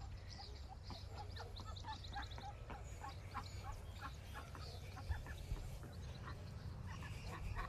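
Faint, soft bird calls: a scattered run of short, high chirps with small ticks in between.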